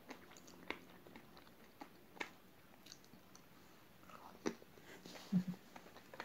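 Chewing of raw, uncooked rice grains and jelly: scattered small crisp crunches as the dry rice is bitten, with a bite into a jelly cube taken off a skewer about four seconds in. A brief low hum near the end.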